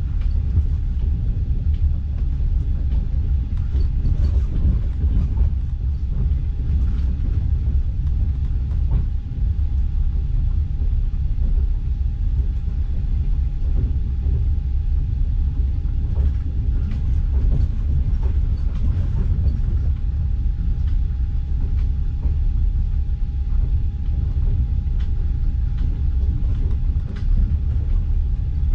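Passenger train carriage running along the track, heard from inside the carriage: a steady low rumble with a faint, steady high hum and scattered faint clicks.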